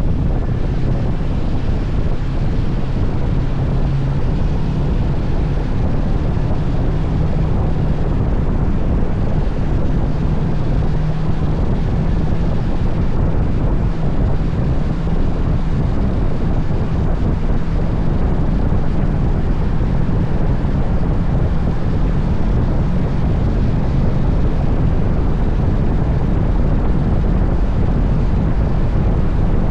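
Steady wind buffeting the microphone over a motorcycle engine running at cruising speed, its low drone shifting slightly in pitch.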